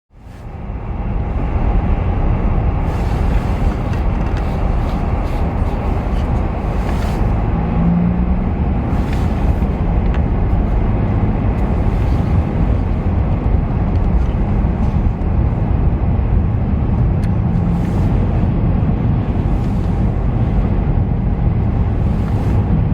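Steady road and wind noise of a vehicle driving, mostly a low rumble, fading in quickly at the start.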